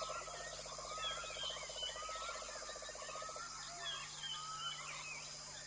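Tropical forest chorus: many birds chirping and whistling over a steady high insect drone, with a fast pulsing trill that stops about halfway through.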